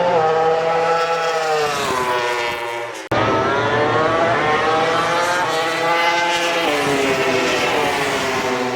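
Racing motorcycle engine at high revs, its pitch falling and rising as it runs through the gears, cut off abruptly about three seconds in and picking up again straight away.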